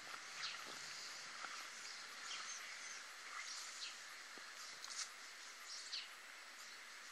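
Outdoor ambience with a steady hiss and small birds giving short, high chirps every second or so.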